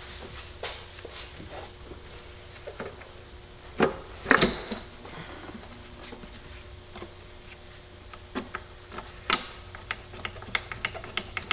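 Light clicks, taps and knocks of hand work on a valve cover: the old rubber bolt grommets being pried and worked out. A few louder knocks come about four seconds in and again around eight to nine seconds, with a quick run of small ticks near the end.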